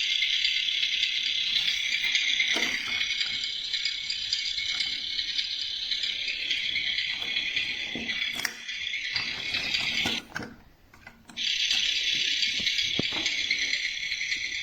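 Driven by Battat toy tractor making a steady, high rattle, with a few clicks, that cuts out for about a second near the end and then starts again.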